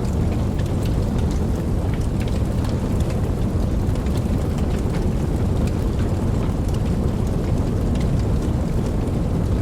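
Steady rain: a dense, even low rush with scattered individual drops ticking over it.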